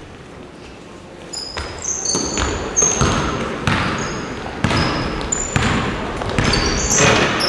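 Basketballs bouncing on a gym floor, several players dribbling at once, with short high sneaker squeaks among the bounces. It starts about a second in.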